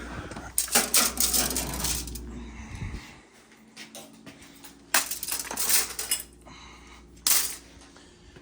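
Metal clattering and clinking from objects being handled, in three bursts: a long one about a second in, another about five seconds in, and a short one near the end.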